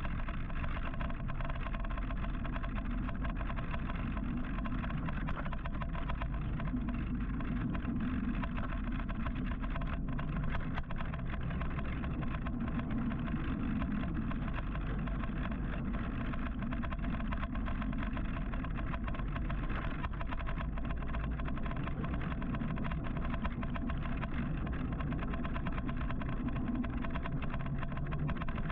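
Steady road and traffic noise heard from an electric motorcycle riding through city rush-hour traffic, continuous with no sudden events.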